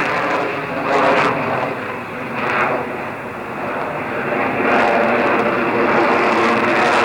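Jet noise from a Dassault Rafale B fighter's twin M88-2 turbofans during a flying display, swelling and easing as it manoeuvres, then loud and steady from about five seconds in.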